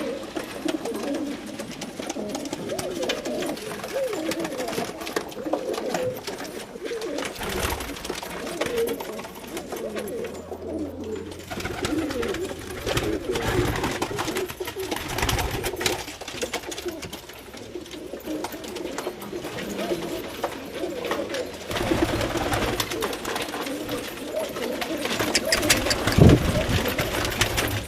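Several domestic pigeons cooing together in overlapping, continuous calls, with scattered clicks and knocks and one louder thump near the end.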